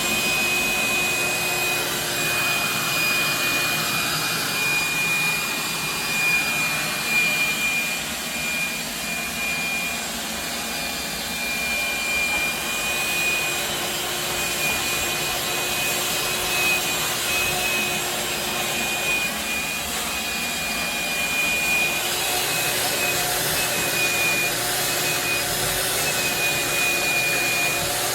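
Wet/dry vacuum running steadily, its motor giving a high, even whine over a rushing noise.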